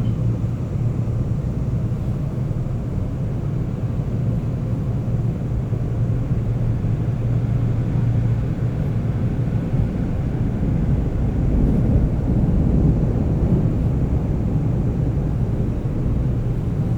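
Seoul subway train running between stations, heard from inside the passenger car: a steady low rumble of wheels on track and traction motors, swelling slightly about two-thirds of the way through.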